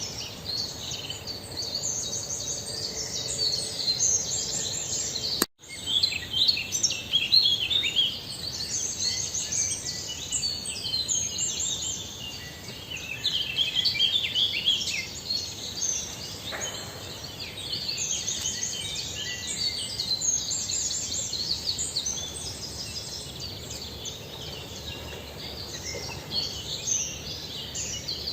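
Many small birds chirping and twittering in a dense, overlapping chorus of short high calls. The sound cuts out for a split second about five seconds in, then the chirping resumes.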